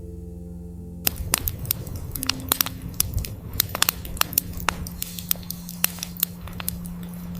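Burning wood crackling, with many sharp pops. It starts suddenly about a second in, over a soft steady ambient music drone.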